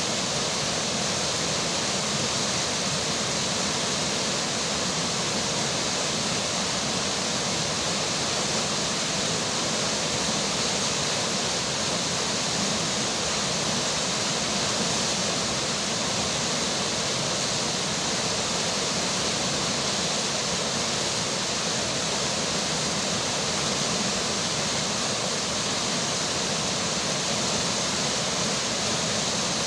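Flowing river water and falling rain: a steady, even rush with no breaks or changes.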